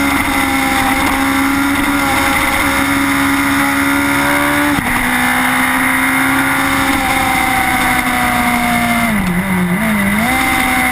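Suzuki GSX-R superbike's inline-four engine running hard at high revs, with wind rush. About five seconds in the pitch drops sharply at a gear change, and near the end the revs dip and wobble briefly before climbing back.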